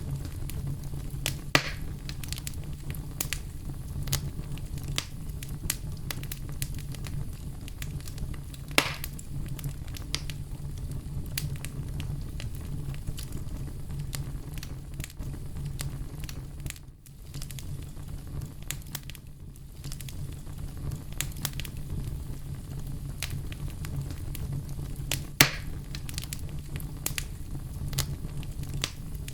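Campfire burning with a steady low rumble and scattered crackling, with three louder pops, about a second and a half in, about nine seconds in and near the end. The sound briefly dips about seventeen seconds in.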